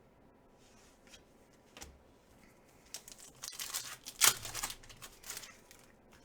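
A trading-card pack wrapper being torn open and crinkled, with a few faint rustles and then a run of short tearing sounds that are loudest about four seconds in.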